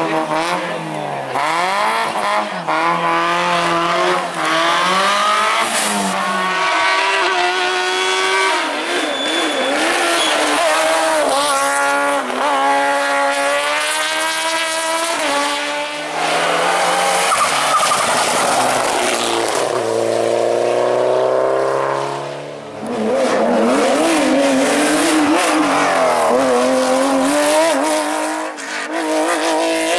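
Hillclimb race cars driven flat out, engines revving hard, rising in pitch and dropping back over and over through gear changes, with some tyre squeal. The sound dips briefly near the end before another car comes through.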